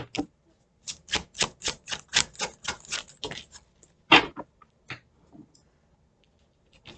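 A tarot deck being shuffled by hand: a quick, even run of card slaps, about four or five a second, that stops a little over three seconds in. About a second later comes one louder slap, then a few faint taps.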